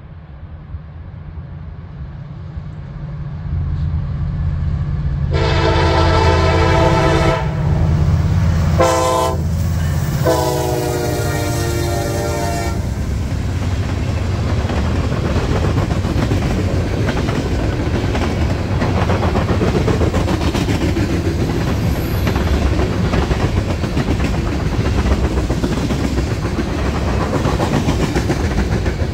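A train approaching and passing: a locomotive's low rumble builds, then its multi-tone horn sounds a long blast, a short one and another long one that drops in pitch as it goes by. The steady clatter of the train's wheels over the rail joints follows.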